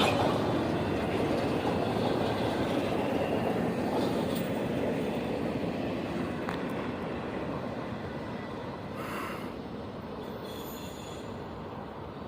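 A train rolling past on the rails, its wheel and car noise fading steadily as it moves away, with faint wheel squeal near the start.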